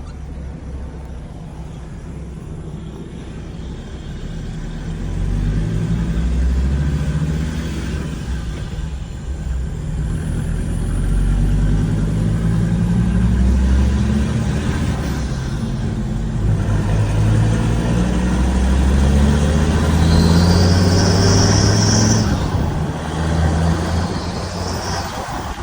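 Ford Ranger T6 3.2-litre five-cylinder turbodiesel with a straight-piped exhaust, accelerating hard, its engine note climbing in pitch and dropping back several times. A high-pitched whistle comes in about twenty seconds in and again briefly near the end; the owner finds a strange sound when accelerating.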